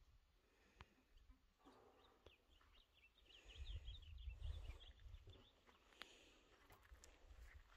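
Faint bird song: a quick run of high chirps from about three seconds in, lasting under two seconds, over a low rumble.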